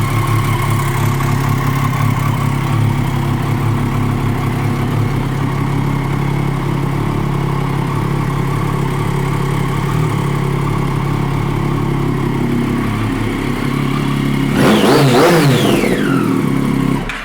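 2011 Triumph Daytona 675's three-cylinder engine idling steadily through a Danmoto twin aftermarket exhaust. About three-quarters of the way through it is revved once, the pitch climbing and then falling back to idle.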